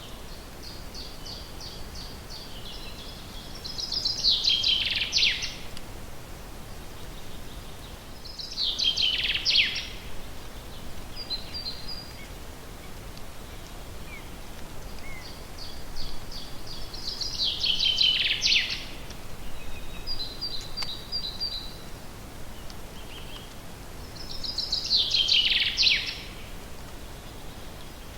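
A songbird singing the same song four times, about every seven seconds: each a run of quick high notes that ends in a louder falling flourish. Softer short chirps come between the songs, over a steady background hiss.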